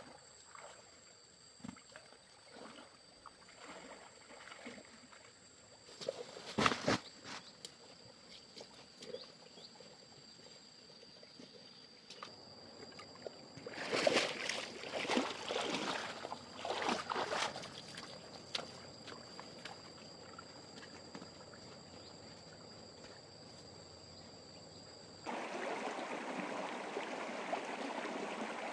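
Water splashing in short bouts over a steady, high insect drone; about 25 seconds in it cuts suddenly to the steady rush of flowing stream water.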